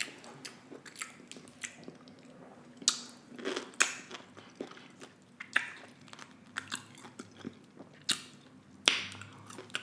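Close-miked chewing of food, with irregular wet mouth clicks and smacks, a few of them louder than the rest.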